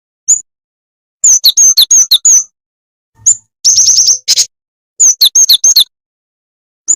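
Jingjing tetep bird calling, as used for a bird-trapping lure: single sharp high chirps and quick runs of chirping notes, with a buzzy rattling burst about halfway through.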